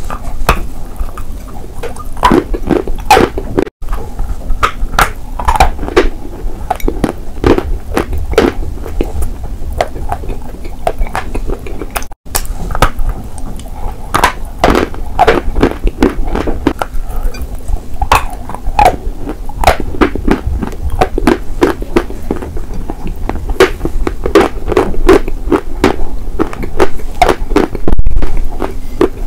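Close-miked crunching and chewing of edible chalk, with crisp bites and crumbling chews following one another irregularly.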